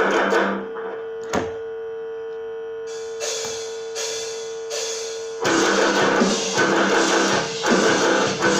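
Guitar strummed in a steady rhythm that breaks off about half a second in, leaving one note ringing on for several seconds with a single sharp pluck or click inside it; the strumming starts again about five seconds in.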